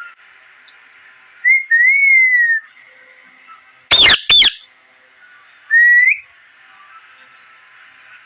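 Pet parrot whistling and chirping. A drawn-out whistle glides slightly down about a second and a half in, two sharp, loud chirps come just after four seconds, and a short rising whistle follows near six seconds.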